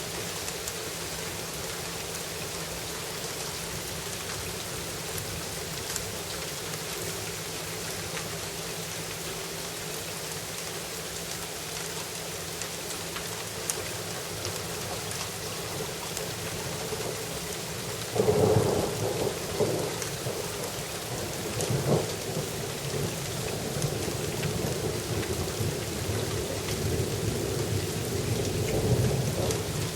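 Steady rain falling, with scattered drop ticks. About two-thirds of the way in a loud rumble of thunder breaks in suddenly and rolls on in waves to the end.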